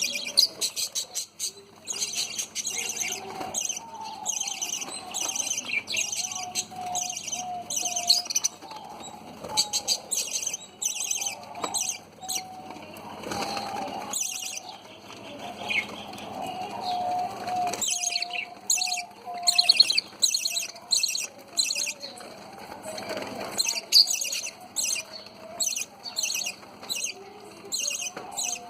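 Budgerigars chirping and chattering: rapid runs of short high chirps with brief pauses, mixed with some longer warbling notes.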